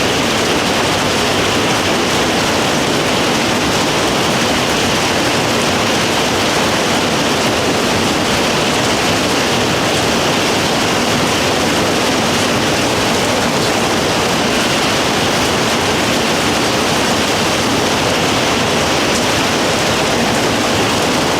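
Heavy rain pouring down in a steady, loud downpour, loud enough that speech has to be raised over it.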